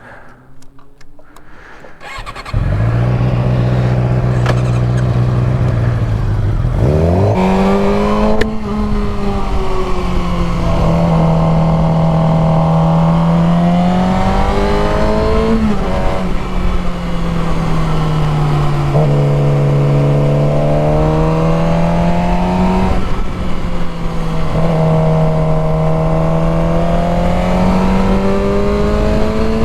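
Motorcycle engine starting about two seconds in and idling, then revving up and pulling away, its pitch rising and falling every few seconds with the throttle and gear changes.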